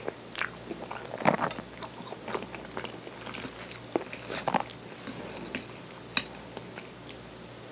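Close-up chewing of soft okonomiyaki: wet mouth smacks and small clicks at an uneven pace, with one sharp click about six seconds in.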